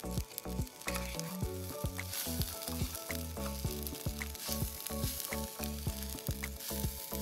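Fried rice sizzling in a wok as it is stirred with a spoon, under background music with a steady beat.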